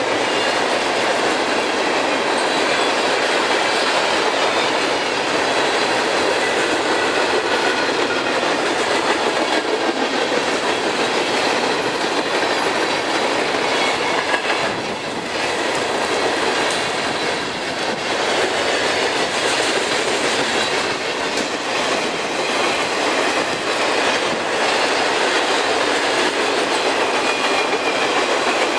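Freight train cars rolling past at speed: a steady, loud rumble of steel wheels on rail with rhythmic clicking over the rail joints and a faint high wheel squeal.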